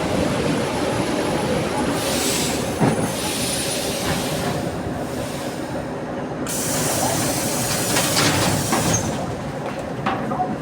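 Train rumbling along the track at a station platform. Bursts of hissing rise over the rumble twice.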